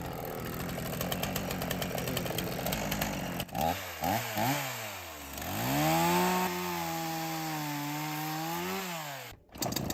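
Chainsaw cutting through firewood, then revved in a few short blips, then run up and held at speed for a few seconds before its pitch falls away as the trigger is released.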